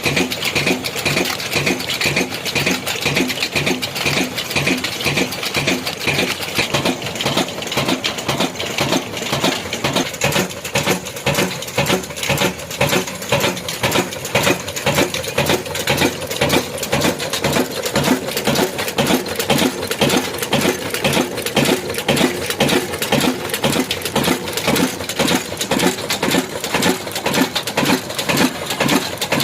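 Old single-cylinder black diesel engine running steadily, its exhaust beating in a regular rhythm of a few strokes a second.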